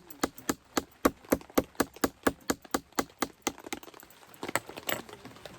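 Rapid tapping on a plastic makgeolli bottle, about five sharp taps a second for several seconds and a few softer ones near the end. The bottle is being tapped to settle the fizz so it won't foam over when opened.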